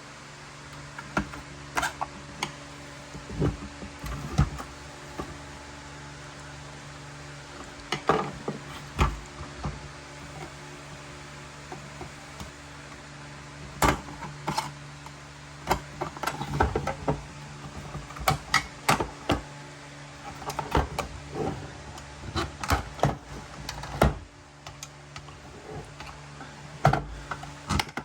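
Scattered clicks and knocks of small parts and tools being handled, over a steady low hum that stops about 24 seconds in.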